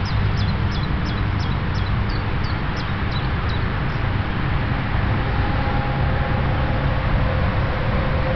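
A steady low rumbling background noise, over which a small bird calls a quick series of short, falling, high-pitched notes, about three a second, stopping after roughly three and a half seconds. A faint steady hum comes in about five seconds in.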